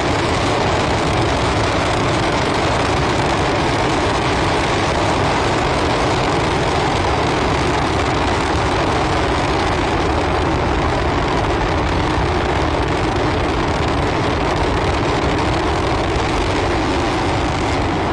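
Steady, loud roar of rocket engines, the Super Heavy booster's Raptor engines firing during its return and catch.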